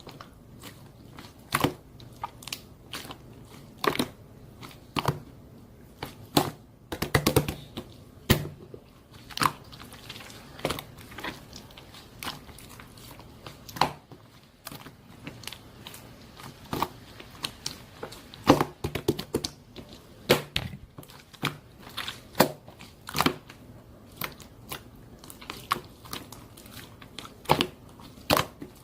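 Irregular crunching and crinkling clicks at close range, coming in uneven clusters with short pauses between them.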